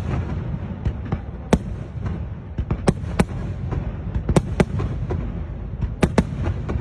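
Fireworks display: aerial shells bursting in an irregular series of sharp bangs, a dozen or so, each with a short echo, over a continuous low rumble.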